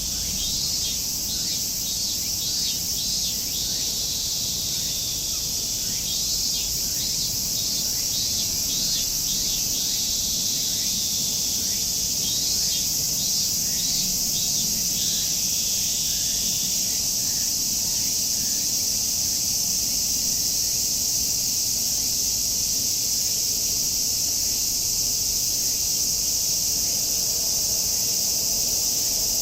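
A dense, steady chorus of cicadas singing in summer, with bursts of rapid bird chirps through roughly the first half.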